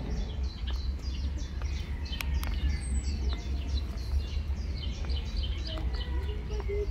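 Birds chirping: a rapid, continuous run of short, high, falling chirps, over a steady low rumble.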